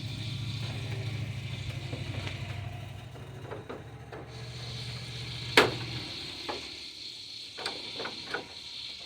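Plastic grille retaining clips being worked loose: one sharp snap about halfway through, then several lighter clicks and knocks. A low steady hum runs under the first part and stops about two-thirds of the way in.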